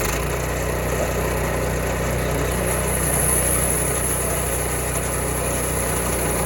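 An engine running at a steady speed, an even hum with a hiss on top.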